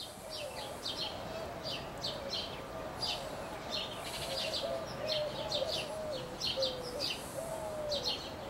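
Birds chirping, short high notes repeated in quick clusters, over a lower wavering tone that runs on unbroken.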